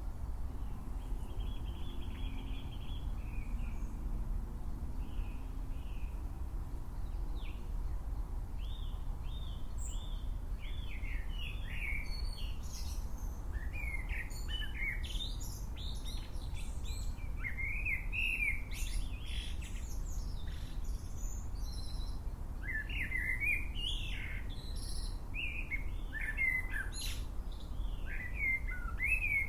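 Wild birds chirping and singing, a few scattered calls at first, then many overlapping chirps from about ten seconds in, over a steady low background rumble.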